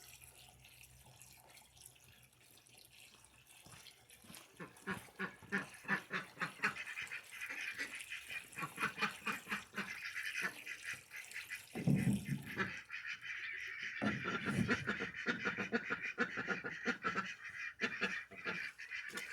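A flock of ducks quacking, a dense run of rapid calls that starts about four seconds in and builds, with a couple of louder bursts past the middle.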